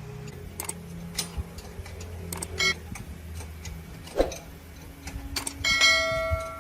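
Metal tools and parts clinking and knocking over a low steady hum, with a louder metal strike near the end that rings on for about a second.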